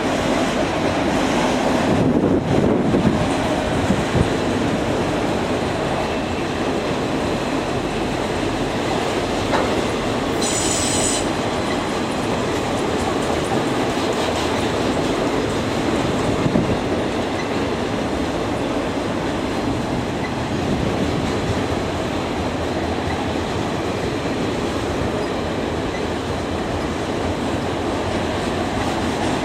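Train cars rolling past on the rails, a steady rumble with wheels clacking over rail joints and a brief high wheel squeal about ten seconds in.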